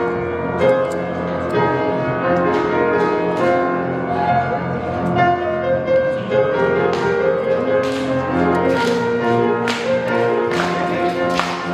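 Instrumental introduction led by piano, with sharp percussive strikes growing more frequent in the second half, before any singing comes in.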